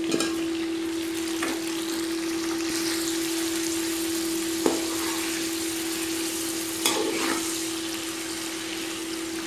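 Potato chunks sizzling in hot oil with fried onions in a metal karahi, stirred with a perforated metal spoon that clinks and scrapes against the pan a few times. A steady hum runs underneath.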